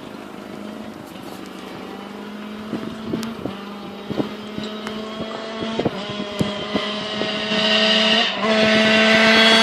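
Suzuki RM 125's two-stroke single-cylinder engine approaching at speed, its steady note growing louder throughout. About eight seconds in, the note breaks briefly, as in a gear change, and comes back louder and brighter.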